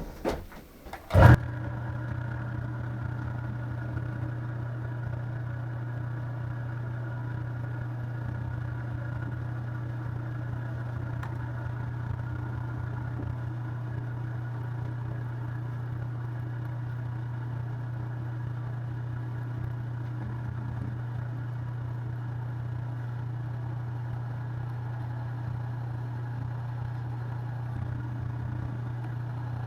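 A machine tool's spindle motor switched on with a loud clunk about a second in, then running at one steady speed with a constant hum and faint whines above it, as a center drill is brought to a 4140 steel block.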